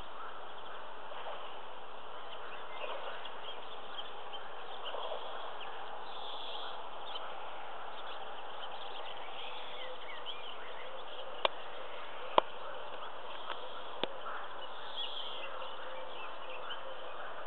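Birds chirping and singing, many short calls overlapping over a steady background hiss, with three sharp clicks a little past the middle.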